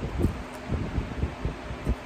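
Close-miked chewing of a mouthful of spicy black bean ramen noodles: irregular low, muffled thuds.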